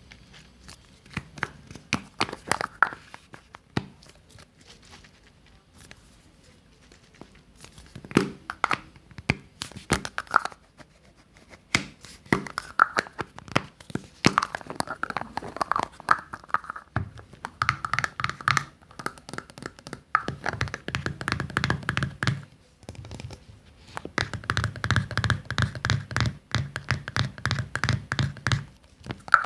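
Dense ASMR tapping, scratching and hand-handling sounds close to the microphone, in irregular clusters of sharp taps. In the second half a low steady hum runs under the taps in two long stretches.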